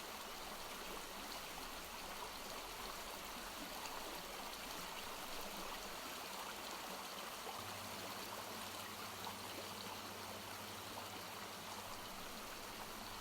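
Steady flowing stream water, a soft continuous babble. A faint low hum joins about halfway through.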